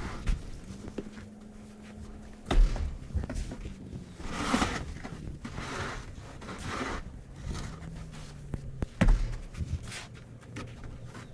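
Two heavy thumps about six seconds apart, with short swishing, rustling sounds between them over a faint steady low hum.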